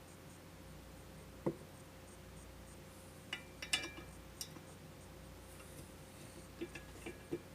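Scattered light metallic clicks and taps from tools and parts being handled: a dull knock, then a cluster of sharp clinks with a brief metallic ring, and a few small taps near the end, over a steady low hum.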